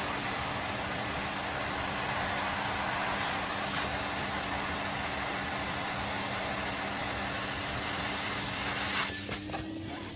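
Steady mechanical hum over a constant hiss. Near the end the hiss drops away and a few clicks follow.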